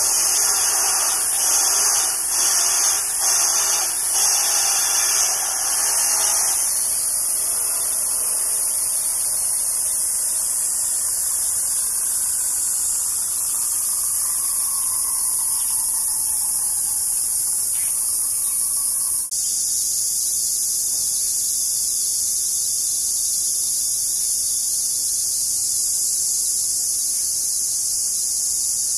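Steady, high-pitched chorus of insects buzzing outdoors, with a few pulses in the first few seconds and a slow falling tone in the middle before the sound changes abruptly about two-thirds of the way through.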